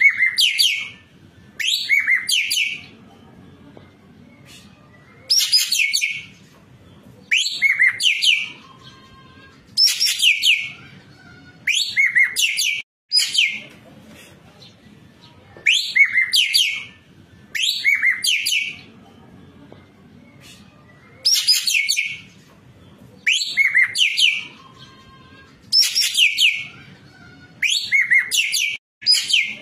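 Ekek keling singing in full, lively song: short bursts of high, quick downward-sweeping notes repeated about every two seconds.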